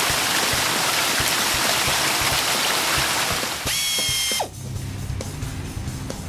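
Cartoon sound effect: a loud, steady hiss that cuts off after about three and a half seconds, followed by a short bright ringing chime. Children's background music with a low steady beat runs underneath and carries on alone near the end.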